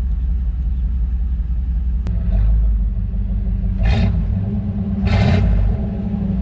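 A 1993 Chevrolet Caprice wagon's 305 small-block V8 with throttle-body injection running just after a Hypertech chip has been fitted. A sharp click comes about two seconds in, and two short, louder surges come near the middle.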